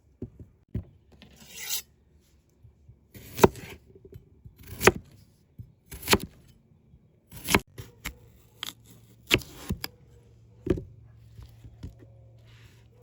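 Kitchen food preparation: sharp knocks about every second and a half, with scraping and rubbing between them.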